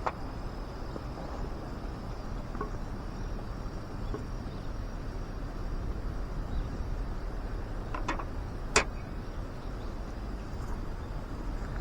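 Outdoor ambience: a steady low rumble under a faint, steady high insect drone, with a few scattered small clicks. The sharpest click comes near the end.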